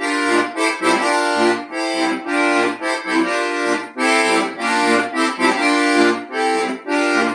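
Accordion playing a lively tune: sustained chords over short bass notes in a steady oom-pah rhythm.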